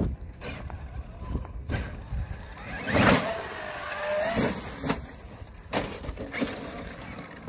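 Electric RC truck's motor whining in a loud burst about three seconds in, held steady for about a second before cutting off, with scattered knocks and thuds from the truck hitting the ground and barriers.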